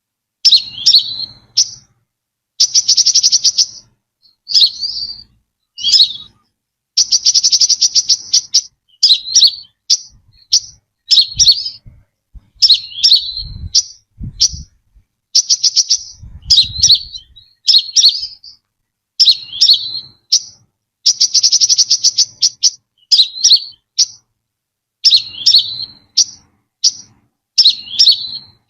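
Brown-throated sunbird calling: short, sharp high notes repeated about once a second, broken by a few rapid trills lasting about a second each. A few low thuds sound near the middle.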